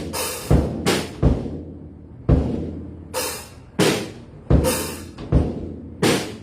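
Drum kit played in a slow, uneven pattern: about nine hits, deep drum strikes mixed with ringing cymbal crashes.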